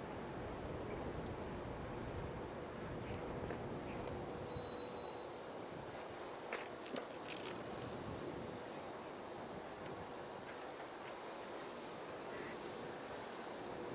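Insects trilling steadily in a high, rapidly pulsing note, over a low rumble that fades about five seconds in. In the middle a thin high tone is held for about four seconds, with a few short clicks.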